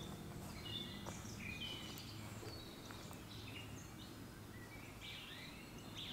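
Faint woodland birdsong: several birds giving short whistled phrases and chirps over a steady background hiss.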